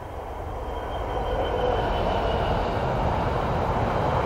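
Container wagons of an intermodal freight train rolling past on the rails, the wheel and rail noise growing steadily louder, with a faint high whine in the first half.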